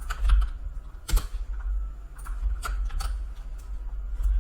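Scattered clicks of a computer keyboard being typed on, a few keystrokes spread irregularly with one louder click about a second in, over a steady low hum.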